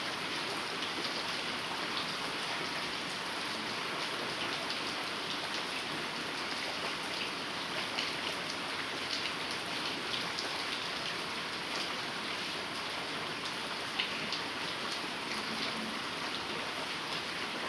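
Heavy rain falling steadily, an even hiss with scattered individual drops striking close by.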